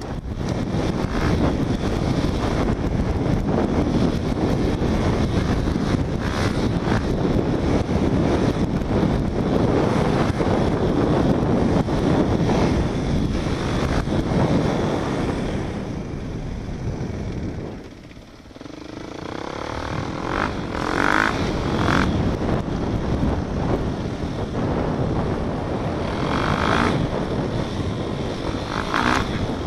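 Off-road motorcycle engine running under way, mixed with heavy wind noise on the microphone. The sound drops off briefly a little past halfway, then picks up again.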